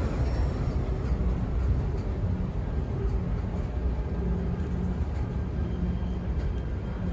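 Freight train rolling past with a steady low rumble and a faint engine hum.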